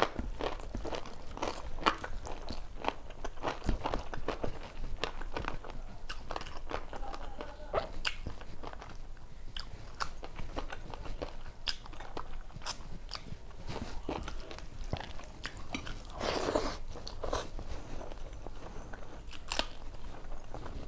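Close-up chewing and crunching of mouthfuls of rice and vegetable dishes eaten by hand, with many small mouth clicks and smacks. One louder, longer burst comes about three-quarters of the way through.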